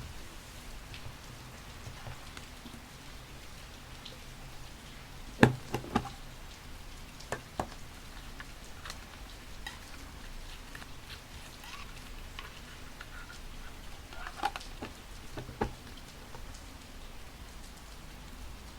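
Steady rain with scattered crisp clicks and rustles of paper and stickers being handled. The loudest are a few sharp taps about five or six seconds in and two more near the end.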